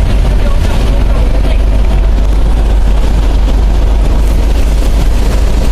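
Vehicle in motion: a loud, steady, deep rumble.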